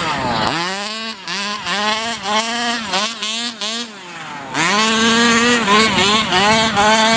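30cc two-stroke gas engine of a 1/5-scale RC monster truck, running through a tuned pipe and revving up and down again and again under the throttle. It eases off about four seconds in, then picks back up.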